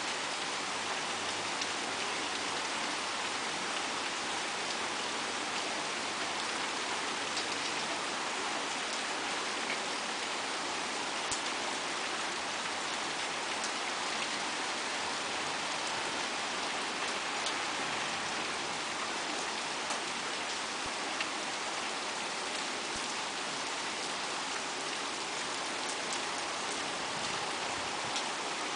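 Steady rain falling and spattering on surfaces: a constant hiss with scattered ticks of single drops.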